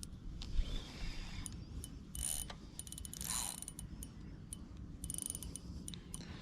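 Daiwa Revros LT 1000XH spinning reel clicking and whirring in short rapid runs as a hooked fish is played on the line.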